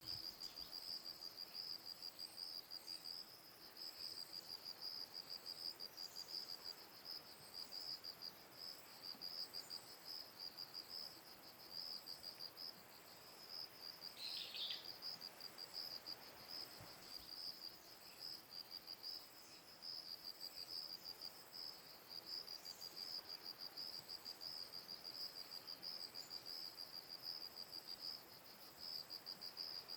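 Insects trill steadily in a high, finely pulsing chorus throughout. A brief, lower call cuts in about halfway through.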